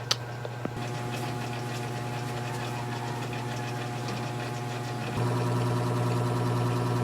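A steady machine hum. There is a click at the start, and the hum steps up louder about five seconds in.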